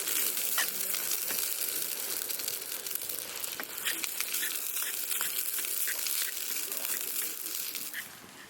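Campfire burning with a steady hiss and frequent sharp crackles and pops of wood.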